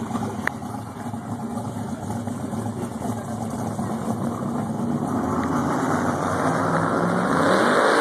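Drag-race car engines running at the track, a low engine rumble that builds steadily louder over the last few seconds.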